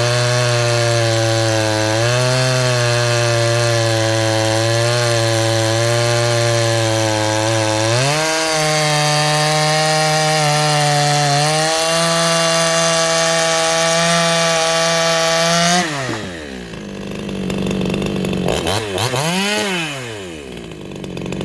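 58cc Chinese two-stroke chainsaw cutting wood at full throttle, its pitch dipping and recovering as the chain digs in, then about 16 s in it comes out of the cut and the engine drops off, revs up once briefly and falls back. Under load it stays down at lower revs without bogging, which the owner takes for torque from its muffler.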